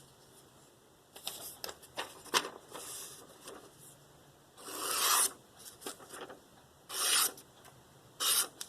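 Freshly sharpened Spyderco Paramilitary 2 S30V blade slicing through paper in a series of hissing strokes, a few short ones and then longer strokes of about half a second each. The cuts are nice and quiet, a sign of a very keen edge.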